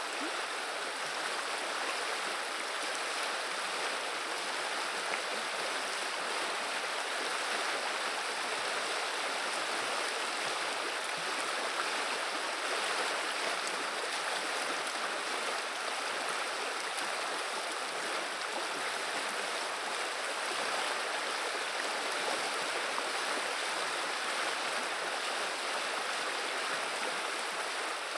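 A river flowing, its water babbling in a steady, even rush.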